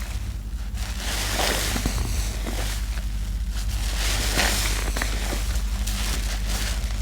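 A sponge squeezed and worked in thick laundry-soap lather: wet squelching with fine crackling of foam, coming in slow swells, over a steady low hum.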